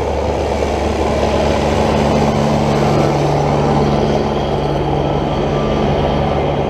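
Motor traffic close by: a vehicle engine running with a steady low hum over a rush of road noise.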